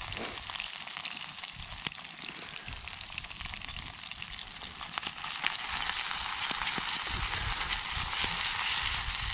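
Chicken thighs frying over a campfire: a steady sizzle with scattered pops, getting louder about halfway through.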